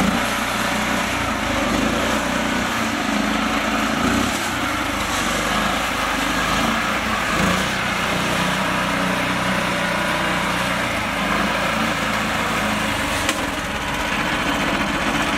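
Mini tractor's small engine running steadily, with a slight waver in its pitch.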